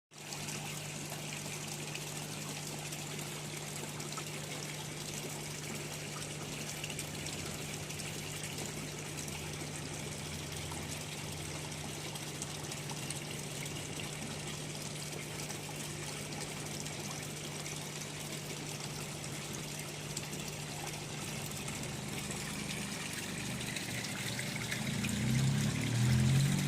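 Water trickling and pouring steadily over a steady low hum. In the last few seconds a louder pitched sound with rising tones builds up.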